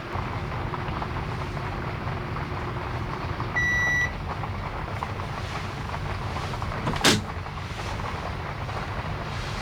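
A single short electronic beep a little over a third of the way in, over steady background noise. A sharp click comes about two-thirds of the way through.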